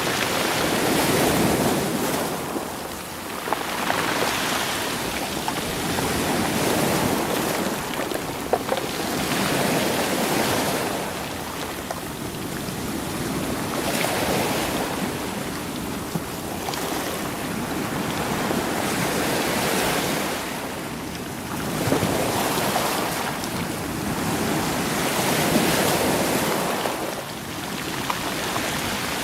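Sea waves surging in and washing back over a rocky, stony shore, swelling and ebbing every few seconds, with stones clicking as they roll in the water.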